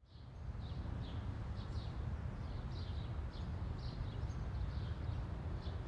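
Small birds chirping in short high calls, about one or two a second, over a low steady rumble of outdoor ambience. The sound fades in at the start.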